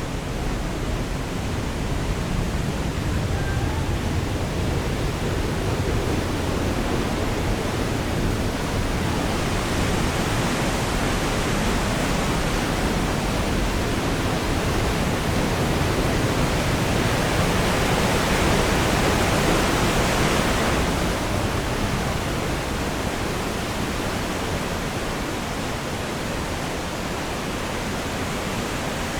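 Steady rush of flowing water, swelling gradually and then dropping back suddenly about two-thirds of the way through.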